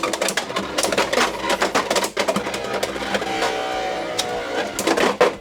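Beyblade X spinning tops clashing in a plastic stadium after launch: rapid, repeated clicking and clattering hits, with a steady ringing tone from the spinning tops for about a second in the middle.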